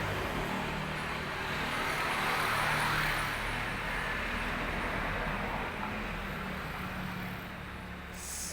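Road traffic noise: a vehicle passing, growing louder about three seconds in and then fading away.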